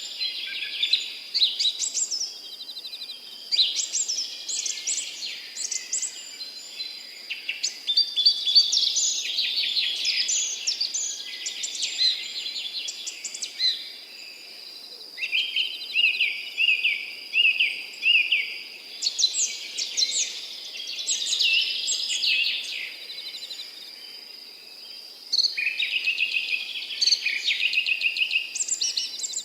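Songbirds singing in phrases of rapid, high, sliding notes a few seconds long, with short pauses between them. One phrase in the middle is a run of repeated lower notes, about two a second. A steady high-pitched tone runs beneath the song.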